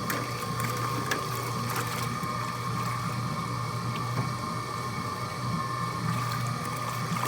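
Laundry machine running steadily with water in the drum: a constant motor hum with a steady higher tone and scattered light clicks.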